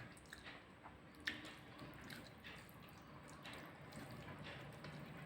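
Faint wet squishing of rice being mixed by hand with a thin leafy-greens curry, with a few soft clicks, one sharper about a second in.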